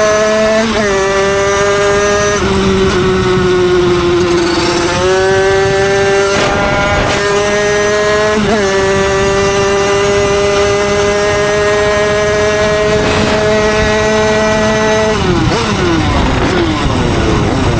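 Derbi Senda's tuned Stage6 88cc two-stroke engine through its Voca Cross expansion exhaust, held at high revs while cruising at speed. The pitch stays nearly level with small wobbles, then falls away a couple of seconds before the end as the throttle closes.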